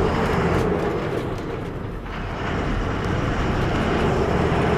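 A motor vehicle engine running with a steady drone and a constant hum, easing off slightly about two seconds in and then building back up.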